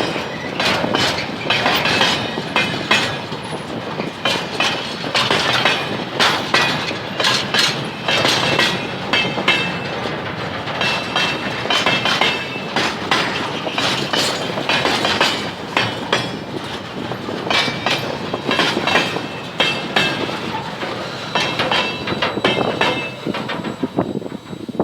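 Freight train cars rolling past close by, wheels clacking over the rail joints in a fast, uneven run of knocks, with brief faint high wheel squeals now and then.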